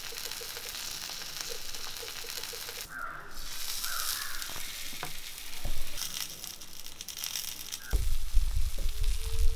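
Banana-leaf parcels of pearl spot fish sizzling in oil on a hot cast-iron tawa, with a few sharp knocks and scrapes from the spatula. A loud low rumble comes in about eight seconds in.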